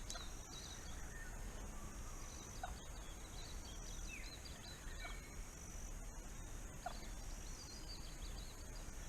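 Wild birds calling: scattered high chirps and a thin high note that comes and goes, with a short sliding whistle every two seconds or so, over faint outdoor background noise.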